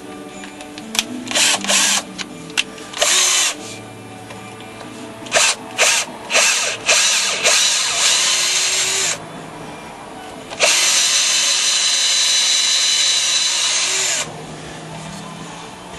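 Electric drill running in a string of short bursts, then one long run of about three and a half seconds in the last third.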